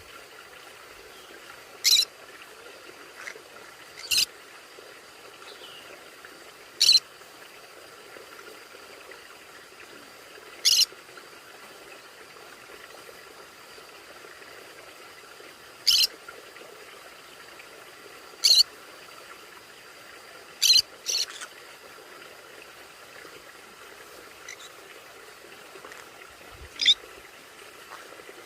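Conures giving short, sharp, high-pitched calls, single or in quick pairs, every few seconds, over a faint steady hum.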